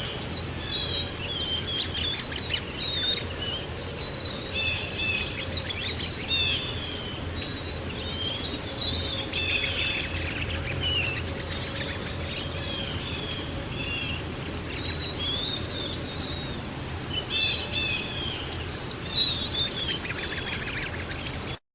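A chorus of many small songbirds chirping and trilling over a steady low rush of background noise. All the sound cuts off abruptly near the end.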